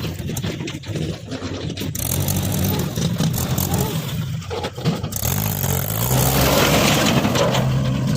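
Heavy diesel engine running under load and revving, with the engine note bending up and a rush of noise building about six seconds in.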